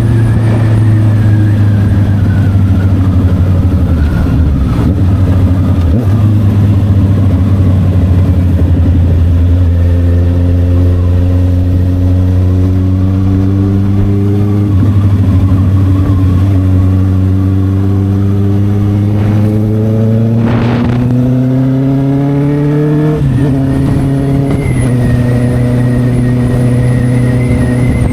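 Honda CB650R's inline-four engine with an SC Project exhaust, running under way. The note holds steady, then climbs gradually for over ten seconds. About two-thirds of the way through it drops suddenly, then settles steady again.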